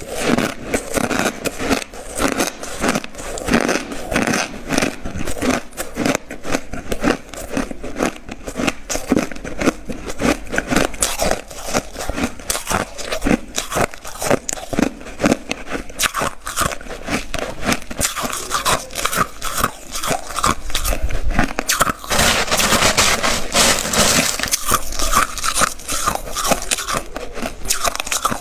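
Ice being bitten and chewed close up: dense, continuous crunching and crackling, busiest and brightest about three quarters of the way through.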